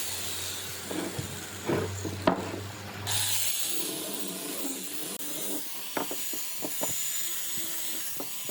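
Wood being handled and worked: several sharp wooden knocks and some rubbing over a steady hiss. The loudest knock comes a little over two seconds in, and a cluster of knocks follows about six seconds in.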